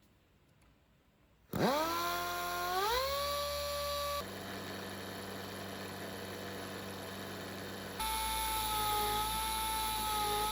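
An electric power-tool motor switched on: its whine rises in pitch as it spins up, then holds steady. It runs on with a steady whine, broken by abrupt cuts to slightly different running tones.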